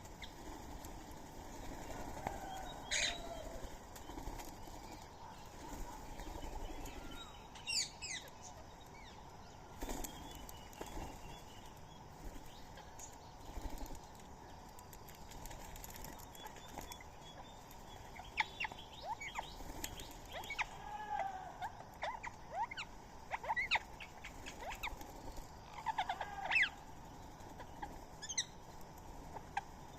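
Birds at a feeding spot calling: scattered short chirps and quick downward-sweeping calls, growing busier in the second half, with a few short knocks over a steady background hiss.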